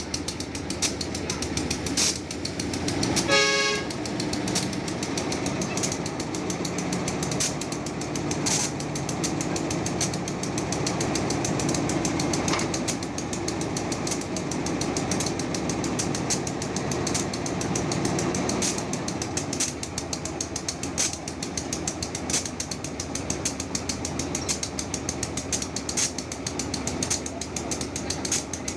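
Train horn sounding once, briefly, about three seconds in, over the steady rumble of a train running, with many sharp clicks throughout.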